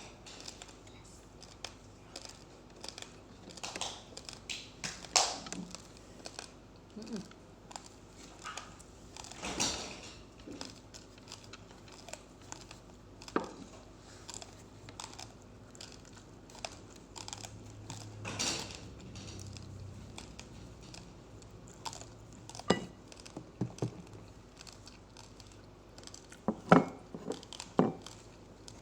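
Uncooked rice grains being chewed, with scattered short crunches and clicks.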